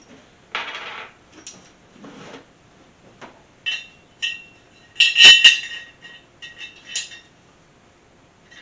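Steel flat washers and bolts clinking and jingling as they are handled, after a short rustle about half a second in. The loudest clatter comes about five seconds in, with a few lighter clinks after it.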